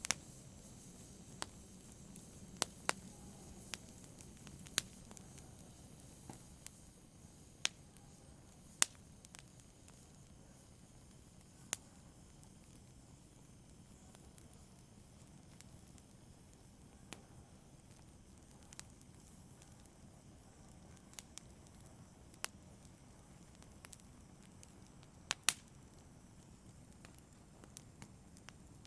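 Wood fire crackling: sharp, irregular pops and snaps every second or few, over a faint low rustle of burning.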